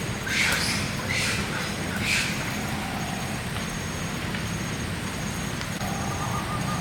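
Heavy rain falling steadily in a downpour. Three short high-pitched sounds rise above it in the first couple of seconds, and a faint high pulsing tone runs on behind.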